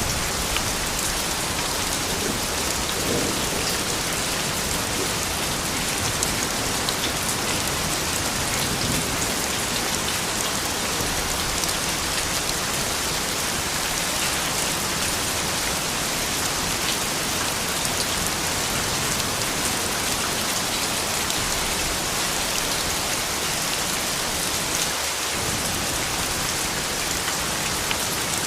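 Steady rain falling, with scattered individual drops ticking on surfaces.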